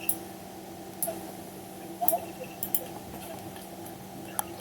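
Scattered sharp clicks of a computer mouse and keyboard, about six spread irregularly, over a steady low electrical hum.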